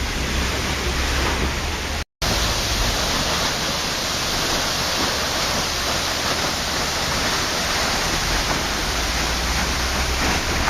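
Waterfall: a steady, even hiss of falling water, broken by a split-second dropout to silence about two seconds in.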